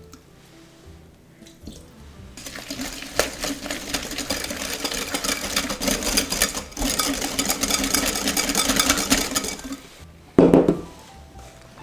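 Hand whisk beating rapidly in a glass mixing bowl, a fast clatter of wires against glass for about seven seconds, then a single loud knock near the end.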